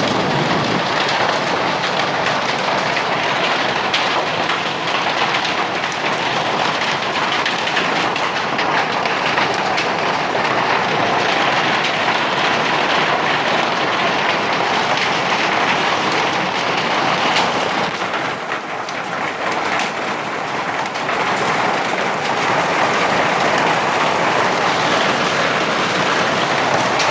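Hailstorm with heavy rain: a dense, steady roar of hailstones and rain pelting down, easing briefly about two-thirds of the way through before building again.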